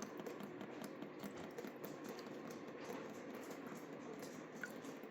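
Water from a burst pipe spattering and dripping: a dense, irregular patter of small drops.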